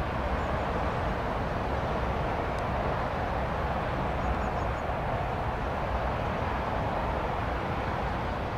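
Steady rushing noise of a TransPennine Express Nova train passing at speed some distance across open fields.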